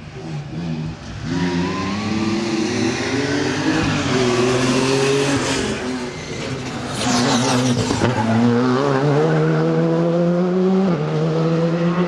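Rally car engine at full throttle, the revs climbing and dropping back at each gear change. About halfway through it briefly lifts off amid a burst of noise, then pulls hard up through the gears again.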